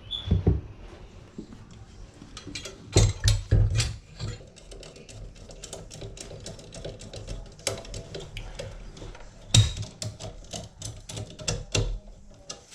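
Irregular clicking, knocking and rattling of hand tools and metal parts being worked, with a few louder thumps about half a second in, around three to four seconds in, and near ten seconds.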